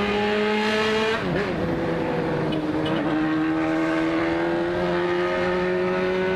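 Motorcycle engine pulling under acceleration, its pitch climbing steadily. About a second in, a gear change drops the pitch before it rises again.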